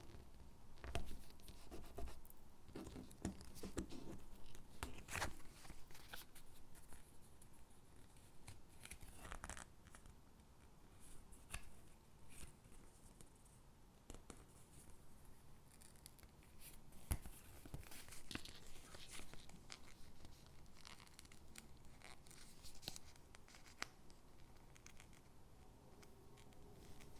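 Stickers being peeled from their backing sheet and pressed onto paper gingerbread cutouts: quiet, irregular paper peeling and scraping with scattered sharp taps.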